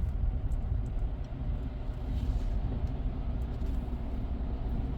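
Car heard from inside the cabin, a steady low rumble of engine and rolling noise with a few faint clicks, as it moves up to the car wash conveyor.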